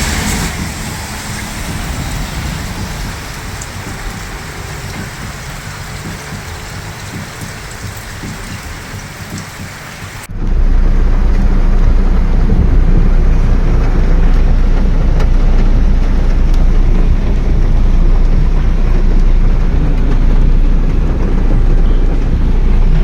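Heavy rain falling steadily in a thunderstorm. About ten seconds in, it cuts abruptly to a much louder, deep rushing noise.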